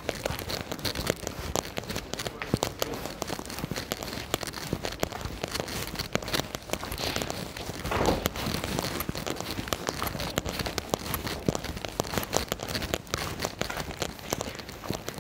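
Raindrops pattering close to the microphone in a dense, crackling stream of small ticks.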